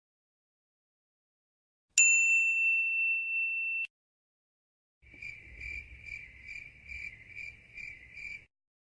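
Sound-effect clips: a single bright ding that rings on as one high tone for about two seconds before cutting off. After a short gap, a high tone pulses about two and a half times a second for roughly three seconds over a faint low rumble.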